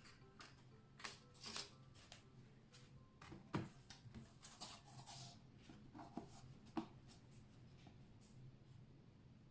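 Faint indoor handling sounds: light rustling and small clicks, with two sharper knocks about three and a half and seven seconds in.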